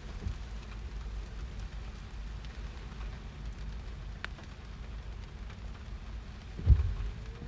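Rain falling on a car's roof, heard from inside the car as a steady sound over a low rumble, with a dull thump near the end.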